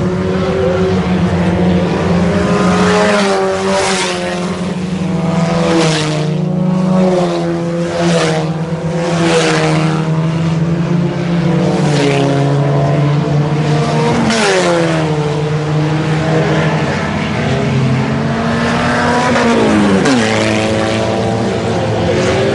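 Pack of IMCA Sport Compact race cars, front-wheel-drive four-cylinder compacts, running hard around the oval, several engine notes at once. Cars pass close by every second or two over the first fifteen seconds. Engine pitch falls sharply as cars go by, once about midway and again near the end.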